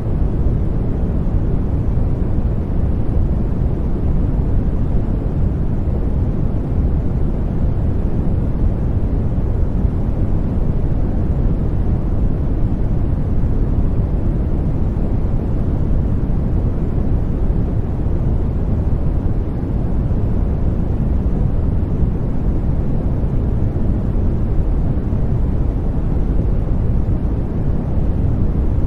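Continuous sleep noise for soothing a baby, a steady deep rumbling hiss that is strongest in the bass and fades toward the treble, with no change or rhythm.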